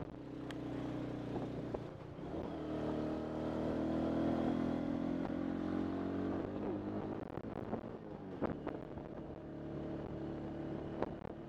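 Motorbike engine running while riding, picking up speed about two seconds in and easing off a few seconds later, with a few sharp clicks.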